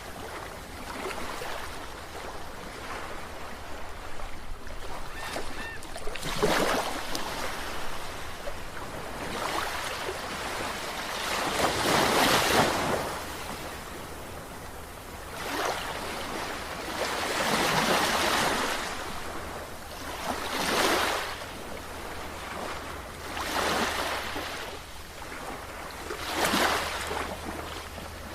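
Sea waves breaking and washing in, a surge of rushing water every few seconds, with a faint steady low hum underneath.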